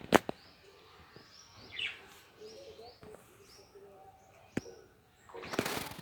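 Pet lovebirds chirping in short high calls, with a sharp click just after the start, another about four and a half seconds in, and a brief rustling burst near the end.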